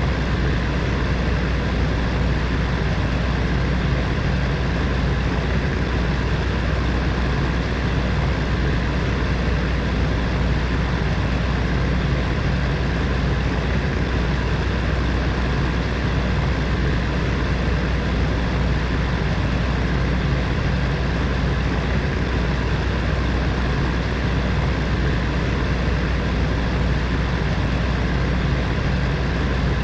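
Heater fan running steadily: an even rush of air over a low, constant motor hum.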